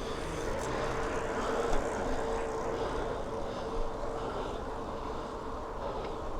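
Street traffic and road noise heard from a moving bicycle: a steady rush, with a steady vehicle hum that fades out about four and a half seconds in.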